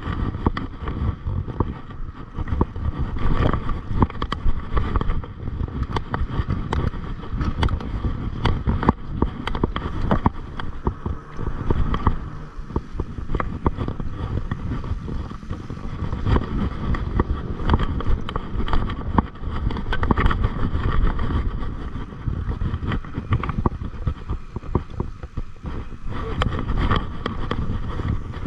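Mountain bike ridden over a rough, wet trail: a continuous low rumble of tyres and air over the microphone, broken by frequent rattles and knocks from the bike over bumps.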